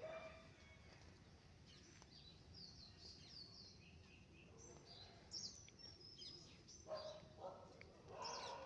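Faint birds chirping: many short, high notes repeating through the middle, over a quiet outdoor background.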